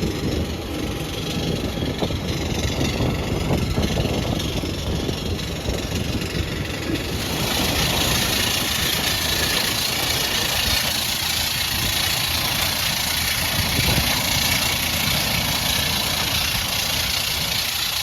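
Steady airliner cabin noise on the ground in an Airbus A319: a low rumble under an even air-conditioning hiss, the hiss getting clearly louder about seven seconds in and holding there.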